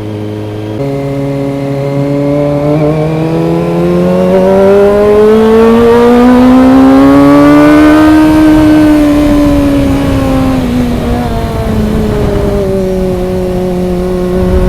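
Kawasaki ZX25R's 249 cc inline-four engine under acceleration. The pitch steps up about a second in, then climbs steadily to a peak around the middle, falls back as the throttle eases, and settles at a steady note near the end.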